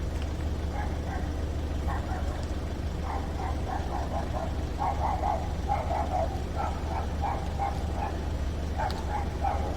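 A dog barking repeatedly in quick short calls, starting about three seconds in, over a steady low hum.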